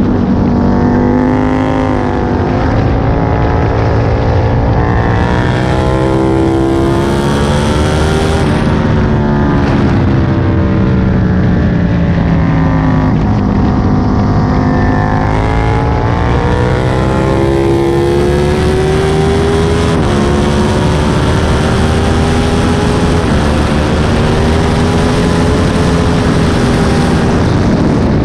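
Aprilia Tuono 1000's 60° V-twin engine heard on board at track speed. Its pitch climbs as it pulls hard, drops sharply about eight seconds in, sinks as the bike slows, then climbs again and holds high near the end. A rushing noise runs under it throughout.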